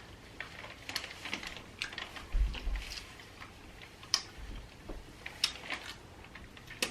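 Close-up eating sounds: irregular small wet clicks and smacks of chewing and lips, with a couple of low bumps around the middle.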